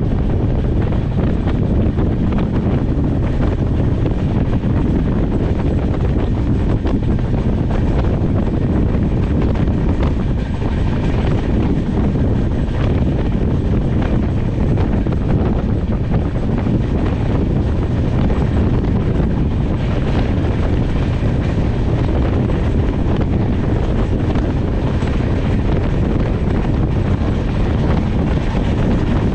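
Passenger train running at speed, a steady loud rumble with wind buffeting the microphone.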